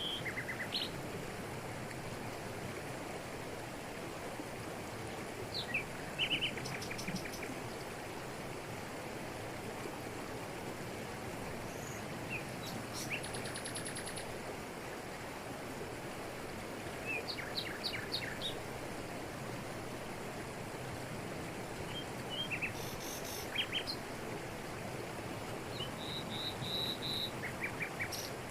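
Steady rush of a waterfall over rocks, with several birds calling in short chirps and quick trills at intervals.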